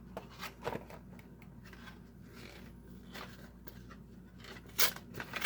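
Cardboard and plastic toy-car packaging being handled: scattered light clicks and rustles, with a louder crinkle near the end.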